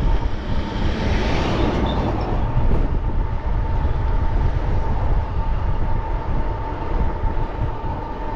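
Wind buffeting the microphone and tyre noise while riding a bicycle: a steady, heavy rumble with a thin, constant whine over it.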